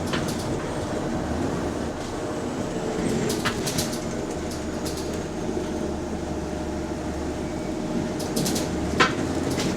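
Bus hydraulic cooling fan and engine heard from inside the bus: a steady drone with a steady whine over it, the weird noise from the hydraulic fan. Light rattles of the bus body come through, with one sharp knock near the end.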